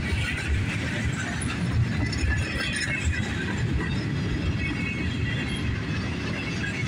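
Loaded freight cars rolling past over a steel girder bridge: a steady, continuous rumble of wheels on rail.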